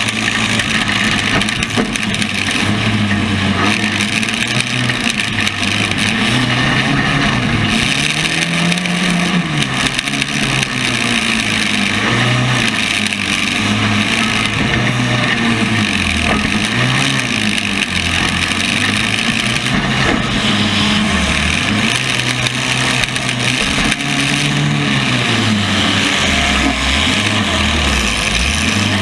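Engines of compact demolition-derby cars revving up and easing off again and again, over a continuous noisy rumble.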